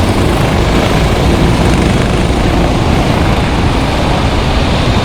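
Racing kart engines running as the karts lap a wet track: a steady, loud noise with a heavy low rumble.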